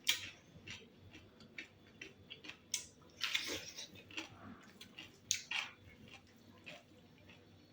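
A person chewing food close to the microphone: irregular short wet mouth clicks, with a few louder sharp ones, about 3 and 5 seconds in.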